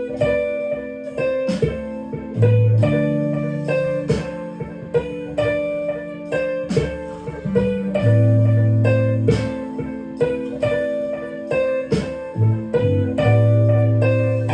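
Clean-tone electric guitar improvising a melodic lead in A minor, several picked notes a second, over held low bass notes.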